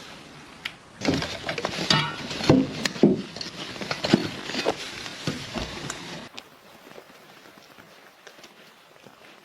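A run of irregular knocks and clatters, which stops abruptly about six seconds in, leaving only a faint background with occasional small ticks.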